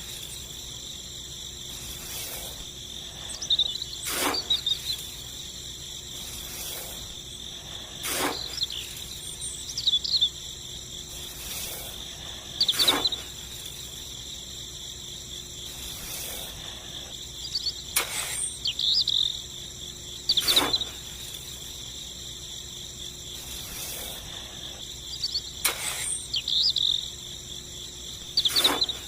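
Insects chirping: a steady high trill with louder bursts of chirping every few seconds. Sharp clicks recur about every four seconds.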